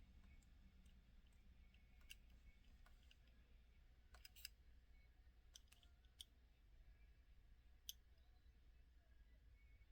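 Faint, irregular small clicks and taps from a diecast model car being turned over in the hands, heard over a low steady hum.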